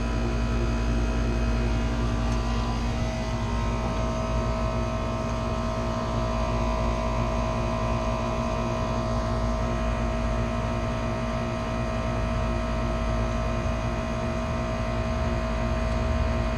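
Steady hum of running motor-driven machinery with a low rumble and several steady tones, one more tone joining about three seconds in.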